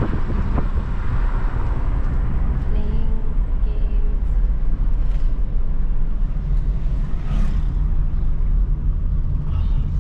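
A car being driven along, its engine and road noise a steady low rumble, heard from inside the moving vehicle.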